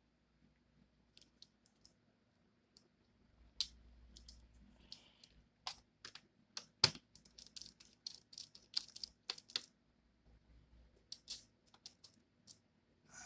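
Scattered small clicks and taps of a screwdriver working the screws in a laptop's plastic bottom panel. The clicks come in a quick cluster in the middle, with one sharper knock among them.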